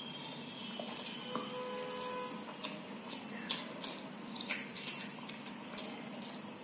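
Wet mouth sounds of eating by hand: sharp, irregular smacks and clicks of chewing and lip-smacking on rice and curry, starting about two and a half seconds in.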